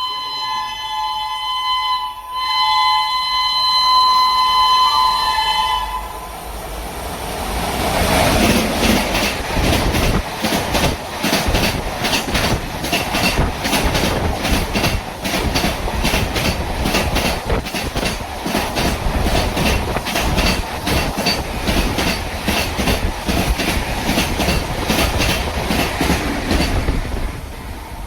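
Indian Railways electric train sounding its horn, a steady blast broken briefly about two seconds in, then passing at speed with the even clickety-clack of its wheels over the rail joints, fading out near the end.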